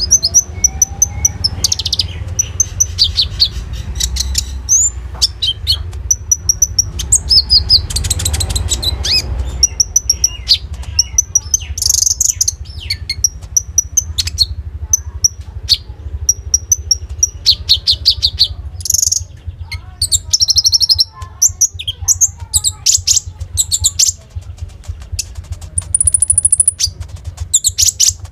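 A konin songbird singing loudly and continuously: fast runs of high chirps, trills and rapid repeated notes, with phrases copied from other birds. A steady low hum runs underneath.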